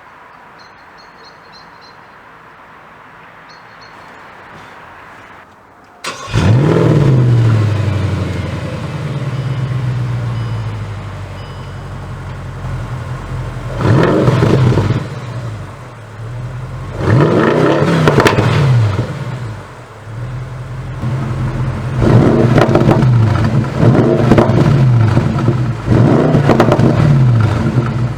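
Bentley Continental GT3-R's twin-turbo V8 with an Akrapovic exhaust starting up about six seconds in, its revs flaring and then dropping back to a lower steady run. The engine is then revved several times, with quick repeated blips over the last several seconds.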